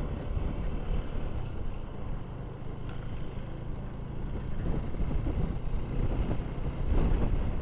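KTM 390 Duke's single-cylinder engine running at low speed, with wind buffeting the microphone.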